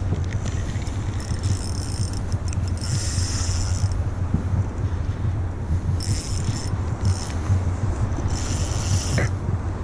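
Fishing reel being wound in about five short spells, its gears whirring, over a steady low rumble.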